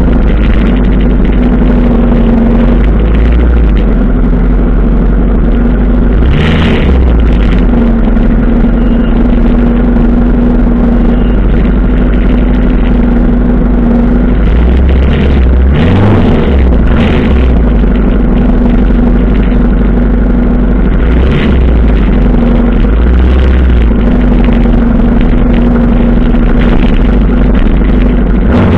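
Suzuki GS 700 ES motorcycle engine running loud and close at low, walking-pace speed, a steady low hum with a few short louder moments, among other motorcycles.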